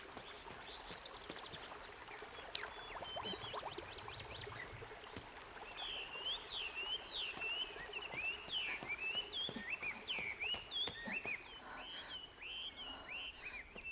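Birds chirping, a run of quick rising and falling calls that grows busier from about halfway through, with a rapid trill near the start and faint taps beneath.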